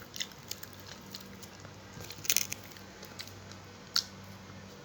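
Close-up mouth sounds of someone eating fried tilapia with spinach and tomato: chewing and biting with scattered sharp, wet clicks and crunches, the loudest about two seconds in and again about four seconds in.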